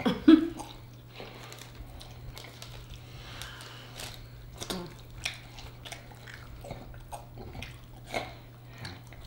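Close-up eating sounds from people biting and chewing saucy chicken wings and stripping the meat off the bones, with irregular mouth clicks and smacks. A steady low hum runs underneath.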